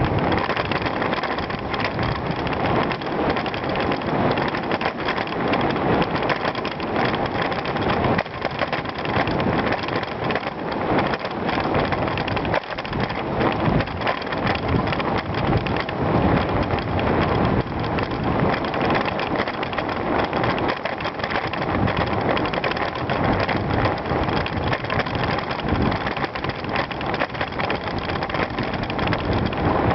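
Bicycle tyres rolling over a gravel trail, a steady dense crunching and crackling of loose stones with small knocks from the bike, mixed with wind noise on the microphone.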